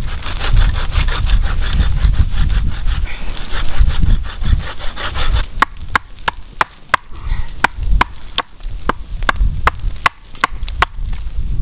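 Hand saw cutting through a wooden pole, stroke after stroke. Quick, dense rasping strokes for the first half, then slower, crisper strokes about three a second.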